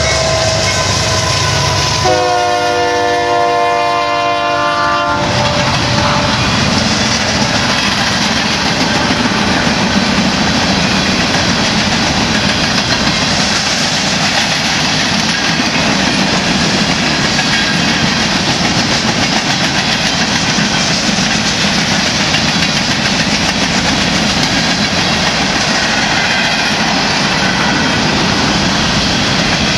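Diesel freight train passing close by: one locomotive horn blast of about three seconds, starting about two seconds in and cutting off sharply, then the steady noise of covered hopper cars' wheels rolling along the rails.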